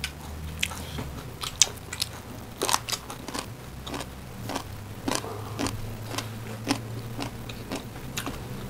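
Close-up eating sounds of rice and chicken curry being chewed, with wet mouth clicks and small crunches coming irregularly, several a second at times.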